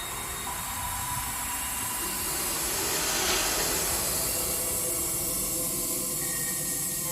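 Experimental electronic noise music: a steady hissing wash of noise with faint sustained tones beneath it, swelling slightly about three seconds in.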